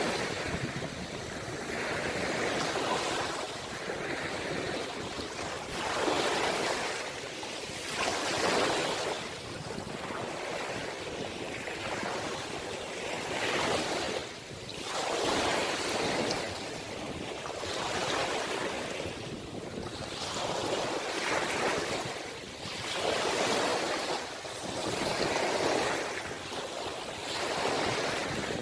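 Ocean waves surging and washing in, one swell every two to three seconds.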